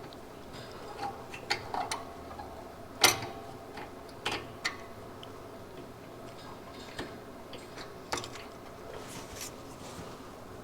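Scattered light clicks and taps of small metal parts being handled as a throttle rod and return spring are fitted to a go-kart's carburetor linkage, the sharpest click about three seconds in.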